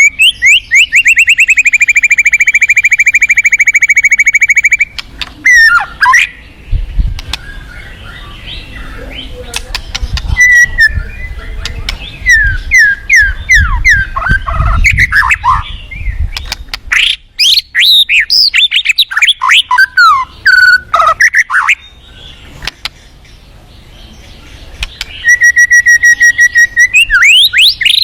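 White-rumped shama singing: a fast trill held for about five seconds, then a run of varied whistled notes sweeping up and down, and another shorter trill near the end. Rushing river water runs underneath.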